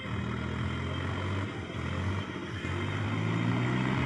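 Heavy diesel engine running steadily, its pitch stepping up slightly after about three seconds as it takes on more throttle.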